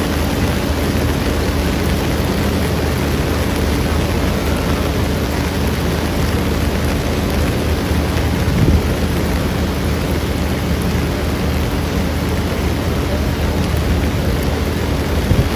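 Steady, loud rush of water, the sound of heavy monsoon rain and flash floodwater.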